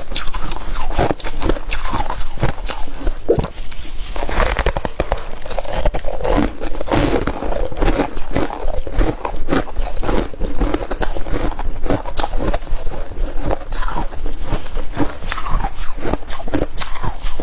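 Flaky freezer frost being bitten and chewed: a dense, irregular run of quick crunches throughout.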